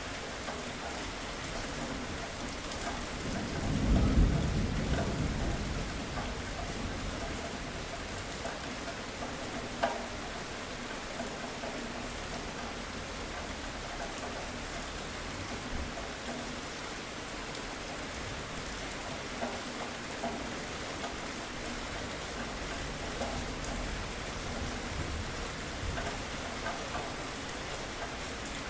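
Steady rain falling, with a low rumble of thunder that swells a few seconds in and dies away over about two seconds. A single sharp drip or tap sounds about ten seconds in.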